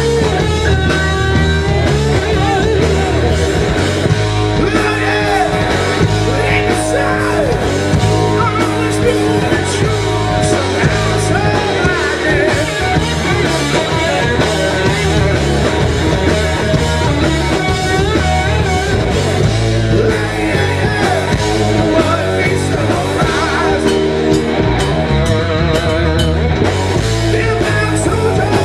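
Rock band playing loudly live: guitar, bass and drums with a singing voice.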